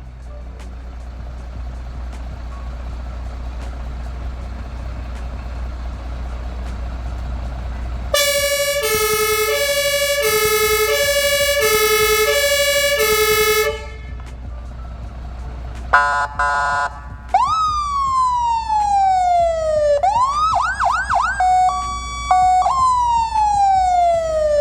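Rosenbauer fire truck sirens tested in turn. After about eight seconds of low steady hum, a two-tone hi-lo siren alternates about once a second for some five seconds. An electronic siren then runs through several tones: repeated falling sweeps, a rapid yelp and a brief steady tone.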